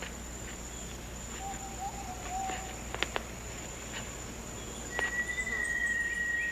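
Rainforest ambience: a steady high insect drone, with a soft low wavering call a couple of seconds in and a few clicks near the middle. Near the end a long, steady whistled note comes in and is the loudest sound.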